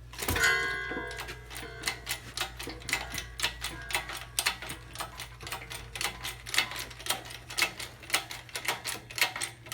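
A metal clang that rings briefly about a third of a second in, then rapid, irregular metallic clicking and tapping from metal engine parts and tools as a Cummins diesel crankshaft is worked out of its block.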